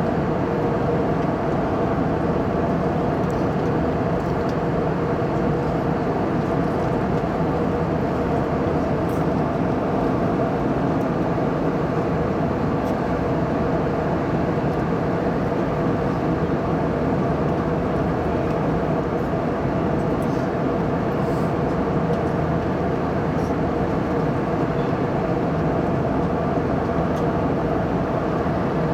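Airliner cabin noise: the steady rush of jet engines and airflow heard from a window seat, with a few steady humming tones under it.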